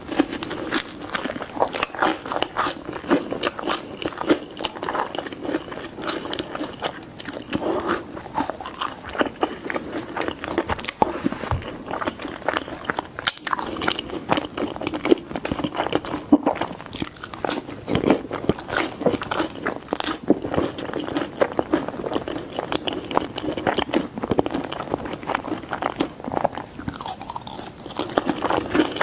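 Close-miked mouth sounds of a person biting and chewing pizza: a dense, irregular run of crunchy, wet chewing and bites.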